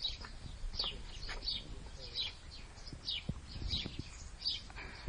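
A small bird chirping over and over: short, high, falling notes about one or two a second.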